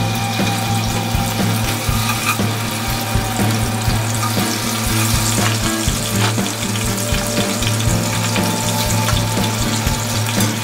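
Small battered whole fish deep-frying in hot oil in a cast-iron pot, a steady sizzle throughout as more fish are laid in with tongs.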